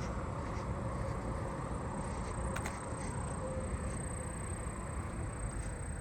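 Allard's ground cricket trilling, one steady high-pitched song that sounds fast, which the listener puts down to the heat. Under it is a steady low rumble.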